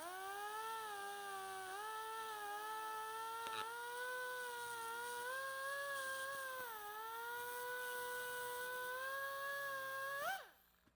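Pneumatic die grinder with a burr bit running at high speed, a steady whine that dips and recovers in pitch as the bit cuts into the plastic bumper tab. Near the end the pitch rises briefly, then the whine winds down and stops.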